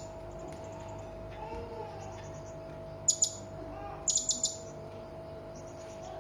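Hanging parrot (serindit) giving sharp, high chirps: a quick double note about three seconds in, then a rapid run of four or five about a second later. Softer calls and a steady faint tone run beneath.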